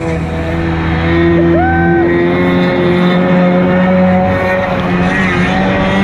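Stand-up jet ski engine running at a steady throttle, with a brief rise and fall in pitch about one and a half seconds in.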